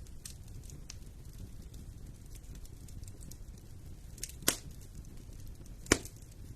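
Fire burning in a fireplace: a steady low rumble of flames with faint scattered crackles, and two sharp loud pops a second and a half apart near the end.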